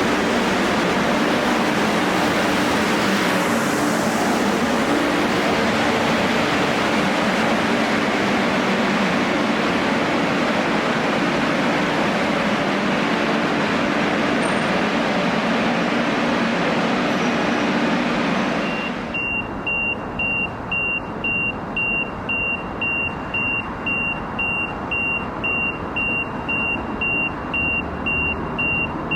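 A train running past close by: a loud, steady rolling noise with a low hum under it. About nineteen seconds in it cuts off suddenly, and a single high electronic beep takes over, repeating a little over once a second.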